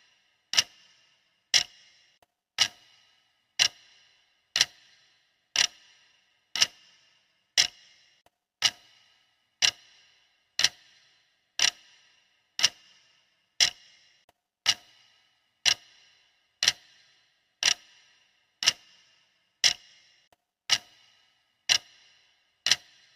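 Clock ticking steadily, one sharp tick about every second, each with a brief ring.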